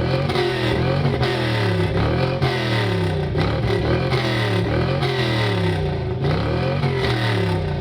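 Chevrolet B-body car's engine revved hard over and over through a loud aftermarket exhaust. The throttle is blipped about once a second, each rev rising and then falling away.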